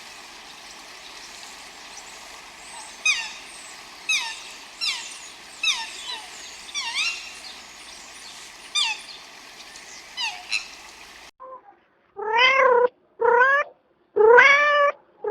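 Short, high, falling calls repeating about once a second over a steady hiss; then, after a sudden cut, a cat meowing loudly several times in quick succession.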